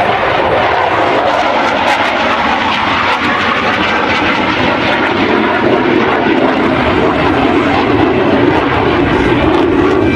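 Dassault Rafale's twin Snecma M88 jet engines roaring loud and steady through a display pass, the roar deepening in pitch about halfway through.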